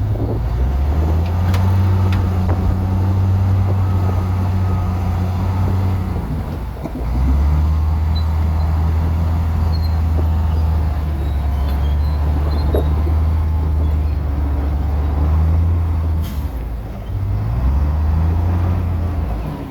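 Heavy diesel engine of an earthmoving machine running hard under load, easing off briefly about six seconds in and again near the end, then revving back up each time.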